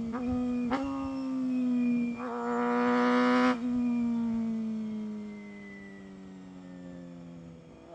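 Honda CBR250RR MC22's high-revving 250 cc inline-four running, with two quick throttle blips in the first second. About two seconds in it pulls hard and louder for a second and a half, then the throttle closes and the revs fall slowly as the bike coasts on engine braking.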